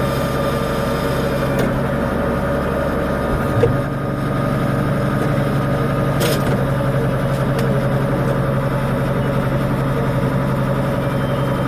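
Tractor engine running steadily while pulling a peat double ridger past. Its low hum shifts about three and a half seconds in.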